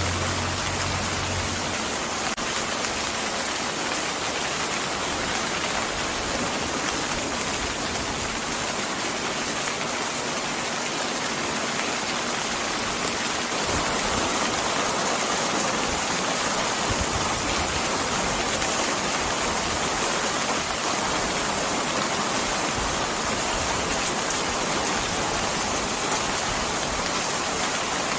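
Steady rain hissing as a dense, even wash, with a low hum that stops about two seconds in. The rain gets slightly louder about halfway through.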